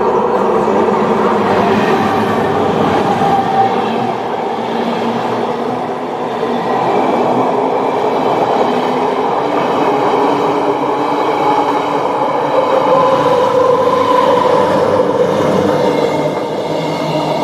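Kaveri Express passenger train running along the track: a steady, loud rumble and rattle of the coach and wheels on the rails, with faint wavering high tones in the wheel noise.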